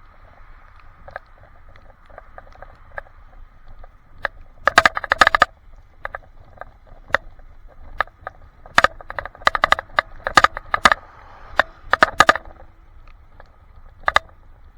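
Weird rattling heard through an action camera's waterproof case on a handlebar mount: bursts of sharp clicks over a muffled steady hum, with the thickest clusters about five seconds in and again from about nine to twelve seconds. The cause of the rattle is unknown.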